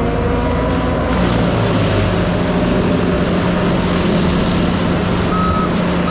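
Heavy diesel land-clearing equipment running steadily under load, its engine pitch drifting slowly. A short beep, like a backup alarm, sounds near the end.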